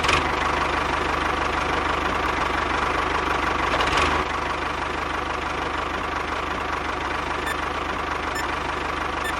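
Small engine idling steadily with a fast, even chugging; it gets a little quieter about four seconds in.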